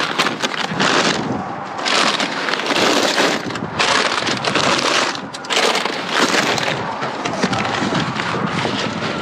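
Loud, close crackling and crunching of junk being handled and shifted, in several surges with scattered sharp cracks.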